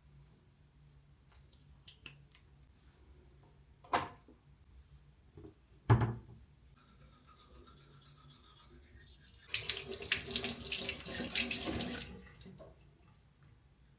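Two sharp knocks, then a tap running water into a sink for about two and a half seconds and turned off.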